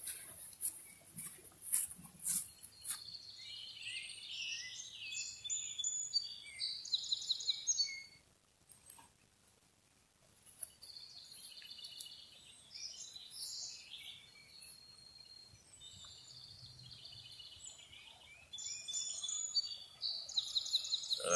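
Songbirds singing in short, repeated trilled and chirping phrases, with a lull of a couple of seconds about eight seconds in.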